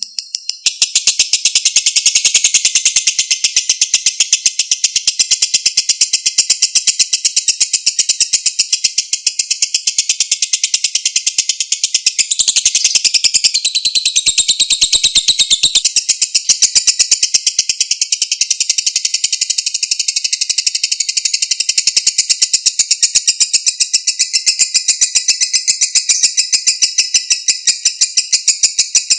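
Lovebird singing a long, unbroken ngekek: a shrill, very rapid chattering trill that starts about a second in and keeps going without a pause.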